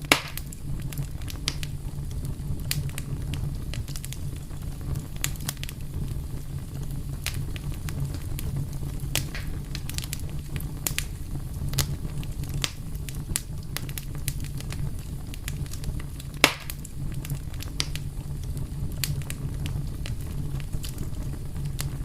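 Fire crackling and popping over a steady low rumble, with irregular sharp pops throughout; the two loudest snap right at the start and about sixteen seconds in.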